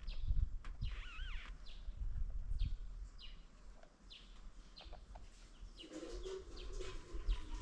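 Birds chirping: many short, falling chirps repeated throughout, with a wavering call about a second in and a lower call about six seconds in. A low rumble sits under the start.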